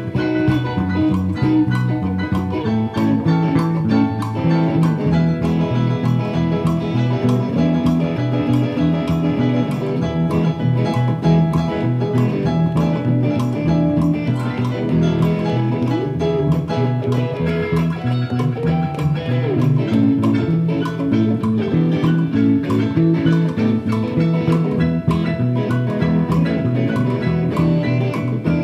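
Live band playing an instrumental passage: guitar over bass guitar and drums, with a steady beat.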